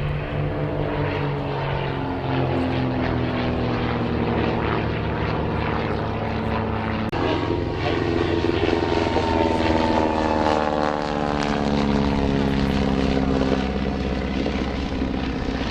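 Propeller aircraft flying past, its engine note falling in pitch as it goes by. After an abrupt cut about seven seconds in, another propeller pass follows with its pitch falling again.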